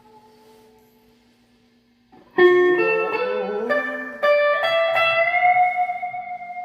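Guitar music: a held note fades away, then after a short pause a phrase of plucked notes with bending pitch ends on one long sustained note.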